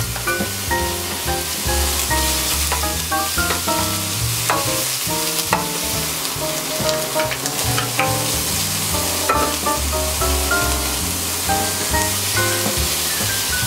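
Bacon, onion and garlic sizzling as they fry in a pan, stirred with a wooden spatula that taps and scrapes the pan now and then. Background music with a melody and a steady bass plays over it.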